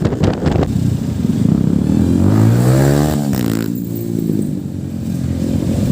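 Motorcycle engine running, rising in pitch about two seconds in as it revs up, then falling off again about a second later.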